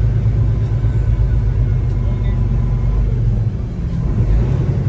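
Semi truck's diesel engine running with a steady low rumble, easing off slightly for a moment near the end.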